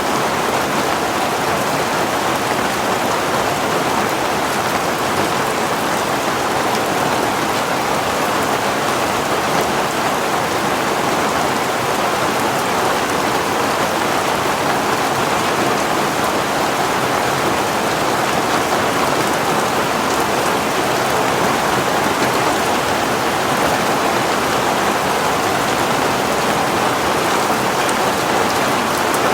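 Heavy rain falling steadily, an even downpour with no letup or distinct drops standing out.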